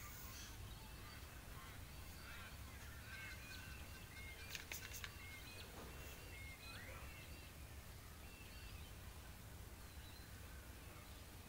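Faint bird chirps over a steady low hum, with two brief clicks about halfway through.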